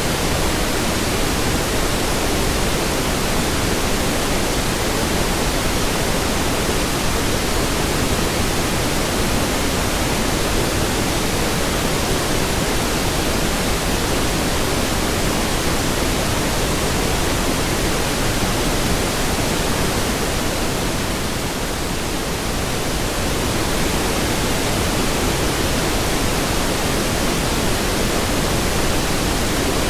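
Steady synthetic pink noise: an even, deep hiss spread across all pitches, dipping slightly in level about two-thirds of the way through before returning.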